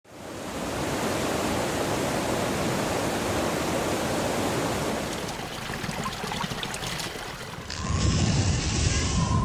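Steady rushing water, fading in at the start. About eight seconds in it cuts to a louder, deeper rumble.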